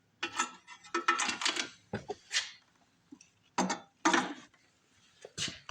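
Small metal parts and hand tools clinking and rattling in short, irregular bursts while a carburetor and its throttle linkage are fitted to a small two-stroke snowblower engine.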